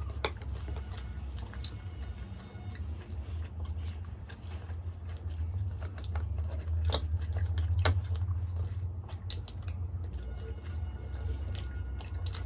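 Close-miked chewing and biting of butter-dipped methi paratha with potato curry: wet chewing with many sharp mouth clicks and smacks, over a steady low hum.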